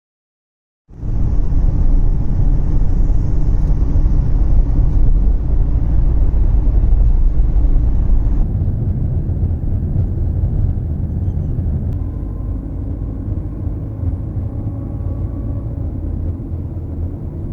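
Steady low rumble of a vehicle running, starting about a second in; the higher hiss over it cuts off abruptly about halfway through.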